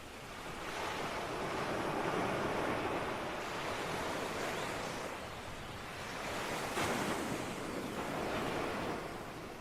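Ocean surf: waves breaking and washing in. The sound rises in two swells, one about a second in and another around seven seconds, then ebbs near the end.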